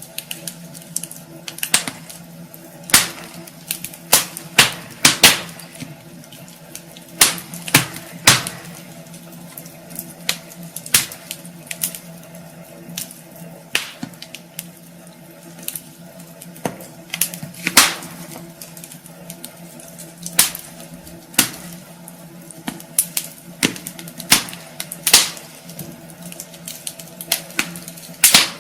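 Wood fire in a fireplace crackling, with irregular sharp pops and snaps, sometimes several in quick succession, over a soft steady hiss.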